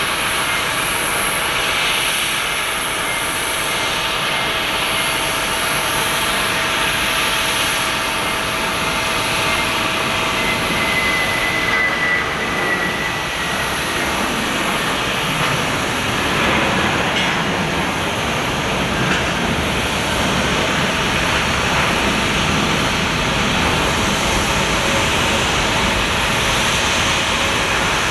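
Jet engines of a Boeing 767-300F freighter, its General Electric CF6-80C2 turbofans, running with a steady, full noise, a deeper rumble building up about halfway through.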